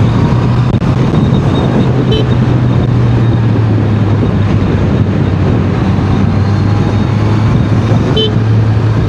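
Honda CBR650R inline-four engine running at a steady cruise under heavy wind rush, with two brief high blips about two and eight seconds in.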